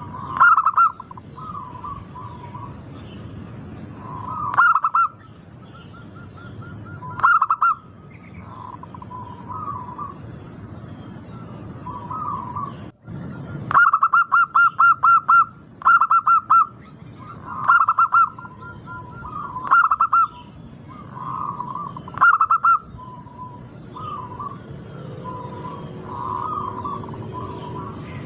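Zebra doves (perkutut) cooing: loud phrases of quick staccato coo notes every two to three seconds, with a longer run of rapid notes about midway, and fainter coos between them.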